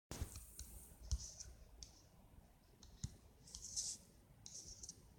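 Faint colouring sounds: light clicks and taps mixed with short scratchy strokes of a drawing tool, several in a row.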